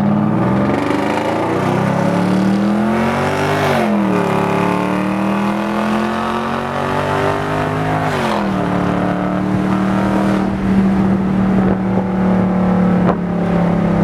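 Car engine accelerating hard through the gears. Its pitch climbs and then drops at an upshift about four seconds in and again about eight seconds in, after which it settles into a steady drone.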